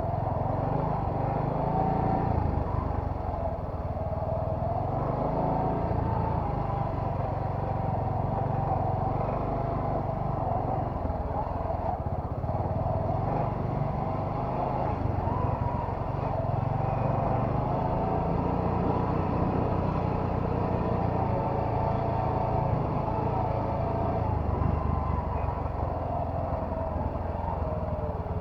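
Bajaj Boxer motorcycle's single-cylinder four-stroke engine running steadily while being ridden, its pitch wavering gently up and down with the throttle, over a low rumble.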